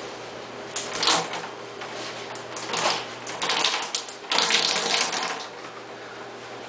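Flood water splashing and sloshing in several short bursts, the longest about four seconds in, over a steady low hum.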